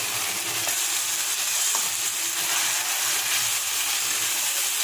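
Onion-tomato masala with turmeric and salt sizzling in oil in a kadai as it is stirred with a spatula: a steady frying hiss.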